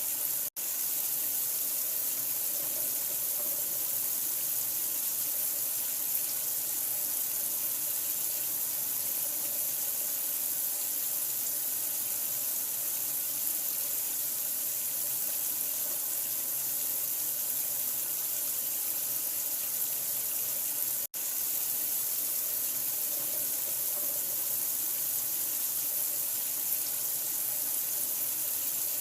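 Water running steadily in an even hiss, like a tap left on, cutting out for an instant twice, about half a second in and about 21 seconds in.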